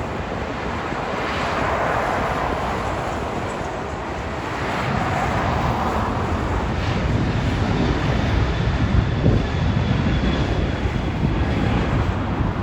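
Jet airliner's engines heard as the plane passes: a broad rush of noise with a faint high whine, and a low rumble that grows stronger in the second half.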